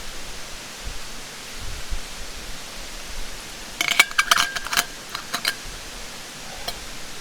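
Steady rush of a mountain stream, with a quick cluster of light metallic clinks and rattles about four seconds in, as small metal camp gear is handled.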